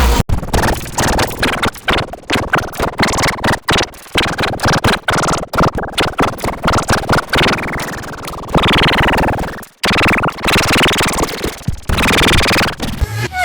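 Harsh, heavily effects-processed cartoon audio: rapid stuttering chops and noisy distortion with no words to make out. There are falling sweeps about halfway through and a brief dropout near the end.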